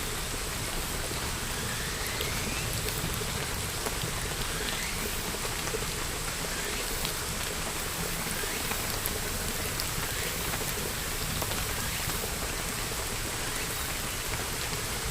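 Steady rain falling, with individual drops ticking close by over an even hiss.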